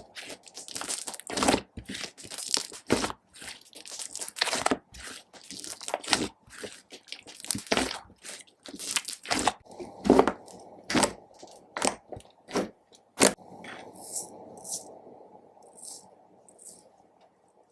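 Slime and makeup being mixed by hand, giving irregular crackling clicks and pops several times a second. About three-quarters of the way through they thin out to faint, high ticks.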